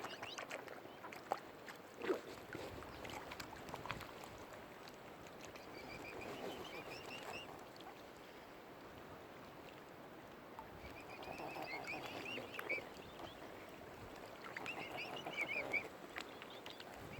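Mute swan cygnets peeping: three bouts of short, high chirping calls, with a couple of sharp clicks in the first two seconds.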